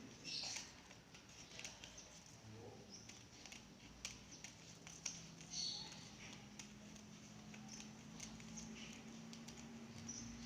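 Scissors cutting slowly through a leaf: faint scattered snips and clicks with a few soft rustles.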